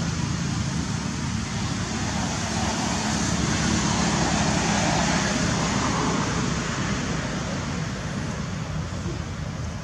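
Steady rushing road-traffic noise with a low engine hum, swelling in the middle and easing off near the end.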